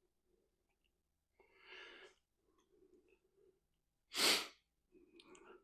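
A person sneezing once, a short loud burst about four seconds in.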